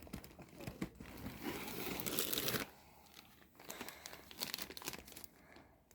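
Crinkling and rustling of packaging and gear being handled while rummaging through a backpack, busiest over the first two and a half seconds, then quieter intermittent rustles.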